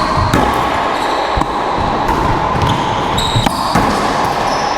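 Racquetball rally in an enclosed court: a handful of sharp, echoing hits of the rubber ball off racquets and walls, irregularly spaced, over a loud steady background hiss.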